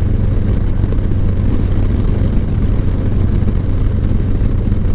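Steady low drone of a moving vehicle's engine and road noise, unchanging throughout.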